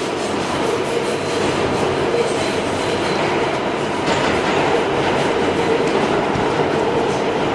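New York City Subway G train running, heard from a moving car: steady rumble of wheels on rails, getting a little louder about four seconds in.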